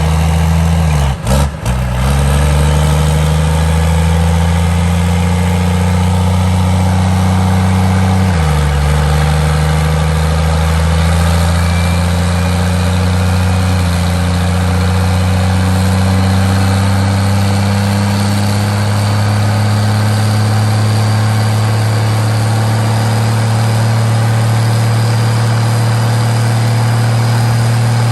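Diesel pickup engine running under load on a chassis dyno: its pitch drops once about eight seconds in, then climbs slowly and steadily as the pull goes on. Two brief dropouts in the sound about a second in.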